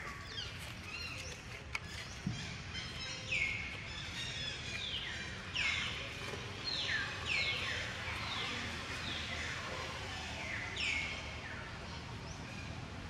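Wild birds calling: repeated high whistled calls that each sweep down in pitch, about one a second, sometimes overlapping, over a steady low background rumble.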